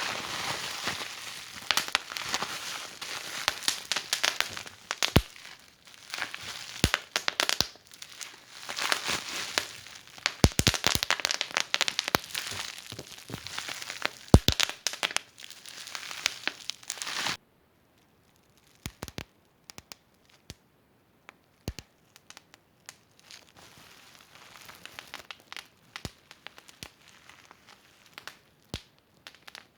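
Wood fire in a fireplace crackling and popping with dense, sharp snaps. About halfway through, the sound drops suddenly to a much quieter fire with only occasional pops.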